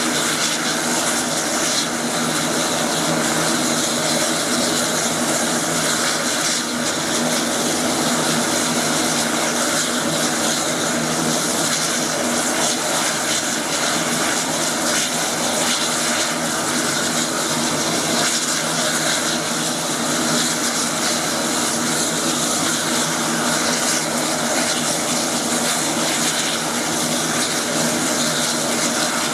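Air Tractor 802 agricultural plane's turboprop engine and propeller running steadily: a loud, constant drone that holds the same pitch and level throughout.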